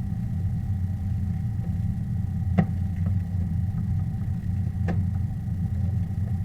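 A steady low rumble with a faint hum over it, broken by two short sharp knocks about two seconds apart.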